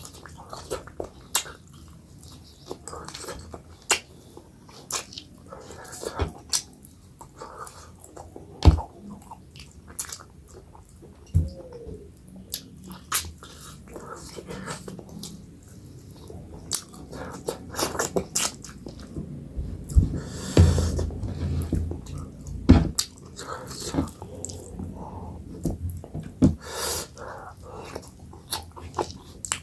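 Close-miked chewing and wet mouth sounds of someone eating kodo millet dhido with chicken curry: irregular smacks and clicks, a little louder and fuller about two-thirds of the way through.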